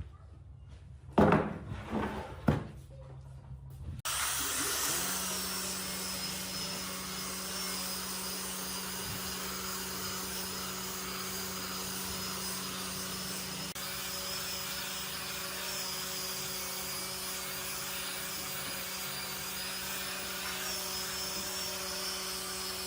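A couple of knocks, then a woodworking power tool starts about four seconds in and runs steadily with a constant hum and a high whine.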